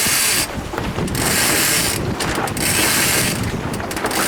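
Sailboat rigging ratcheting as a line is hauled in, in strokes about a second long repeating roughly once a second.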